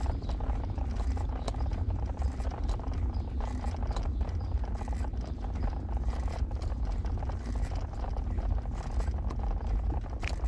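Steady low rumble of a vehicle on the move, with irregular light clicks and rattles over it.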